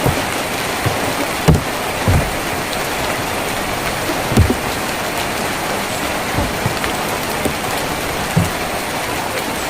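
Steady rain on a tin roof: a dense, even patter, with a few heavier drips landing as dull low knocks every couple of seconds.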